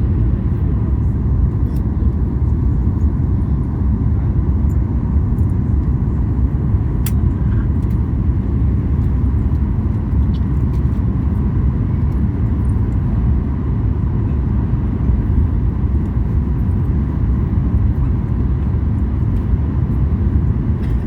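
Steady low rumble of a Boeing 737 MAX 8's cabin noise, its engines heard from inside the passenger cabin, with a faint steady whine above it and a few faint clicks.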